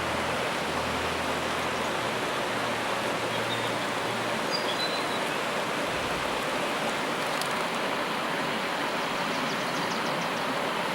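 Steady rushing of running water, like a stream, with a few faint high chirps about halfway through.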